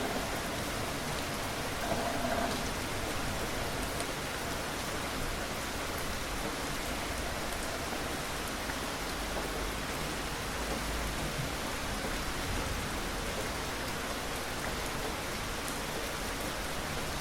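Steady rain falling on a surface: an even hiss with faint, scattered drop ticks.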